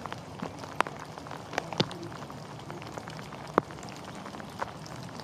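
Rain falling: a steady hiss with a few irregular sharp taps of single drops landing close by.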